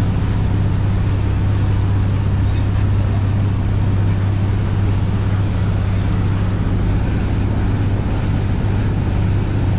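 A boat's engine running steadily under way, a constant low hum with a rushing noise over it.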